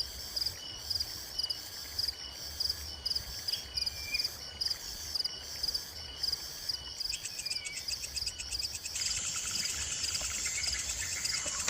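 Insects chirping in a steady, rhythmic pulse, with a louder, denser insect buzz starting about nine seconds in.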